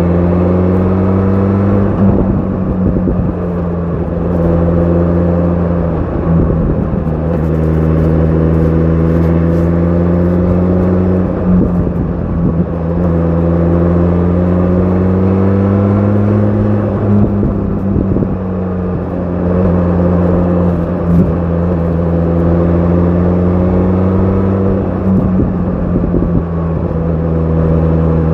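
A 2025 BMW S1000 RR's inline-four engine with an Akrapovic exhaust, running at moderate revs under way. Its pitch rises slowly and drops back briefly several times as the throttle is eased and reopened.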